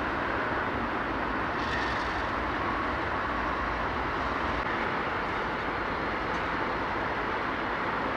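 Train passing, with the steady even noise of its wheels rolling on the rails.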